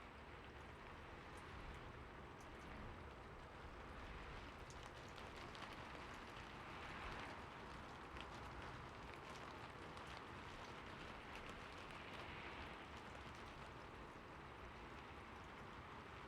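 Steady rain falling on a roof, an even patter with many small drop ticks.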